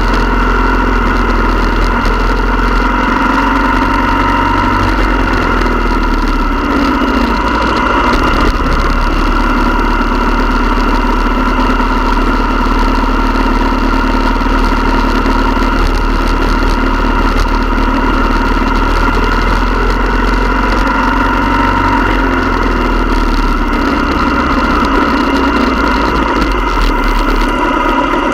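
Motorcycle engine running steadily at a near-constant pitch, with a deep low hum underneath.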